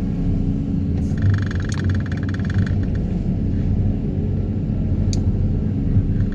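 Excavator engine and hydraulics running steadily under load while a Daedong 350T vibro hammer extracts a steel sheet pile, with a fast buzzing rattle from about one second in to nearly three seconds as the hammer vibrates the pile.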